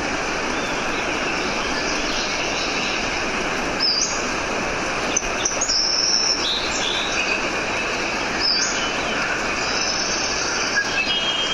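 Nature field recording of birds chirping and whistling over a steady rushing hiss, with several short high calls about halfway through.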